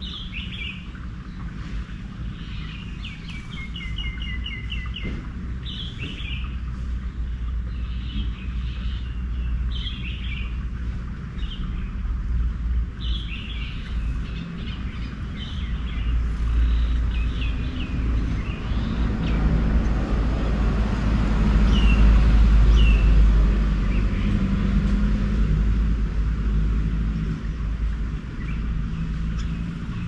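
Garden birds chirping and calling: many short high chirps and a quick trill, thinning out in the second half. Underneath runs a steady low rumble that swells to its loudest about two-thirds of the way through, then eases off.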